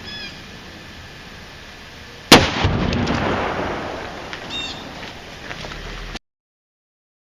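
A single very loud shot from a Smith & Wesson Model 500 revolver in .500 S&W Magnum about two seconds in, followed by a long echo that fades over a few seconds before the sound cuts off suddenly.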